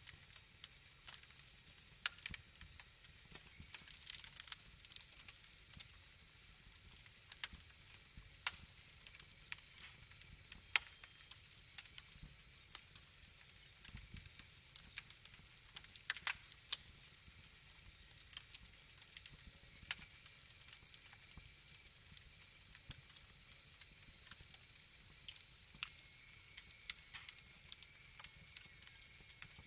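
Wood fire burning quietly, with irregular sharp crackles and pops over a soft hiss; a faint thin high whistle joins about two-thirds of the way through.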